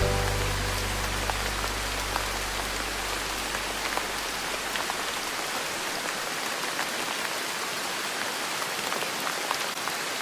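Steady rain falling, an even hiss dotted with small drop ticks. Low held notes of soft music fade out over the first few seconds.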